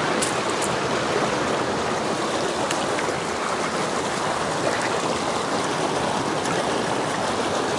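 Mountain stream flowing: a steady, even rush of water, with a few faint clicks in the first second and once more a little later.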